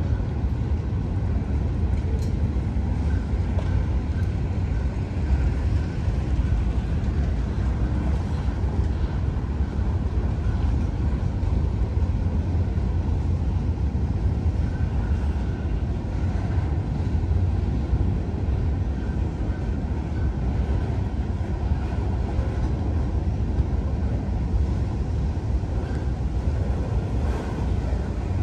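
Freight train's open-top cars rolling past: a steady low rumble of steel wheels on the rails.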